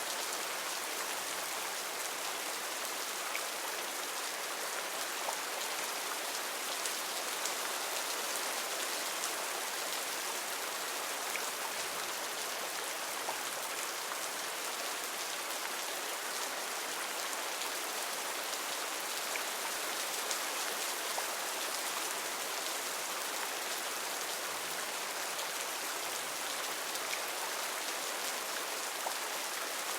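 Heavy rain falling steadily in a rainforest, a dense even hiss with scattered individual drops.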